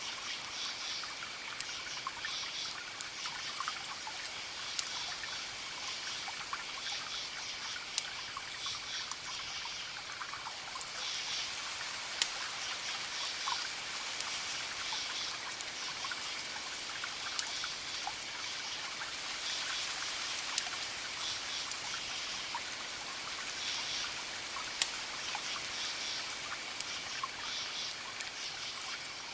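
Campfire crackling with scattered sharp pops, over crickets chirping in repeated pulses and a steady hiss of distant ocean waves.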